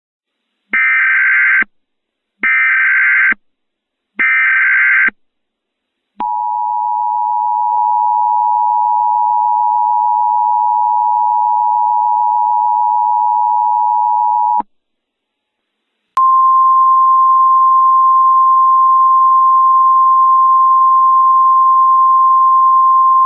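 Emergency Alert System tones: three one-second bursts of SAME header data, then the two-tone EAS attention signal (853 and 960 Hz) held for about eight seconds. After a short gap, a single steady tone of about 1050 Hz, the NOAA Weather Radio warning alarm tone, starts and is still going at the end.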